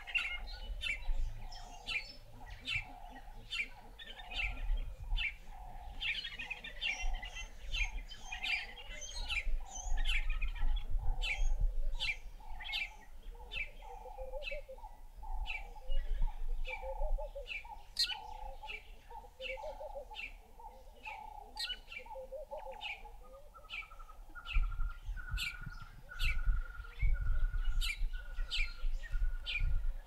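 Birds calling: a rapid run of sharp, high chirps, about two a second, over a lower repeated note. About three-quarters of the way through the lower note gives way to a steady, thinner tone, with some low rumble underneath.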